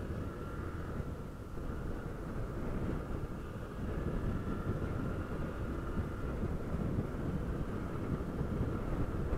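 Honda CG 160 Fan motorcycle's single-cylinder four-stroke engine running at a steady cruising pace, heard through wind rush on the microphone, a little louder about four seconds in.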